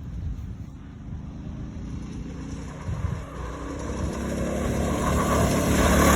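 Go-kart engine under full throttle, approaching and growing steadily louder over the last few seconds.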